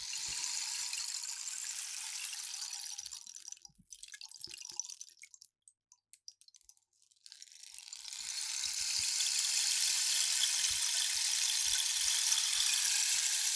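Rainstick tipped over, its pebbles trickling down inside with a rain-like hiss. A long pour fades out a little past a quarter of the way through, a short second pour follows, then a pause with a few scattered ticks, and a long pour builds up again just past halfway.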